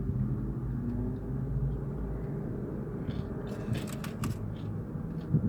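Steady low rumble of a car's engine idling, heard from inside the cabin, with a few short clicks about three and a half to four and a half seconds in.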